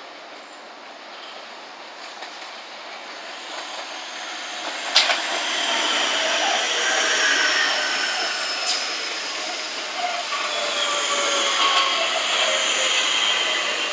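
Southeastern Class 375 Electrostar electric multiple unit approaching and running past, a rising rumble of wheels on rail. There is a sharp clack about five seconds in and another fainter one a few seconds later. Thin high squealing tones from the wheels carry on as it runs along the curve.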